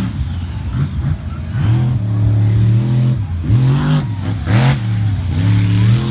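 Iron Warrior monster truck's big engine revving hard during a freestyle run, its pitch rising and falling in several surges of throttle.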